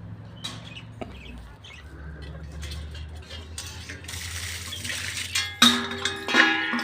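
A few scattered knocks and rattles, then a pet bird calling loudly and repeatedly in the last second or so.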